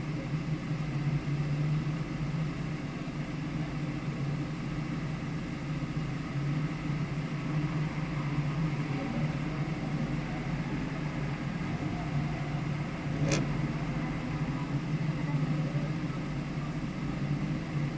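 Steady, unchanging hum of a vehicle engine that is not revving, with one sharp click about 13 seconds in.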